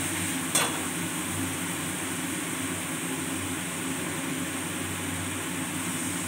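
Steady sizzle of onions, capsicum and green chillies frying in sauce in a steel kadai over a high gas flame, with one clink of the spatula against the pan about half a second in.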